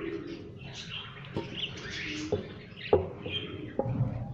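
Budgerigars chirping steadily in the background, with four or five sharp knocks, the loudest about three seconds in.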